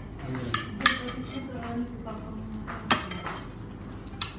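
Spoons and forks clinking against plates during a meal: a few separate sharp clinks, the loudest about a second in.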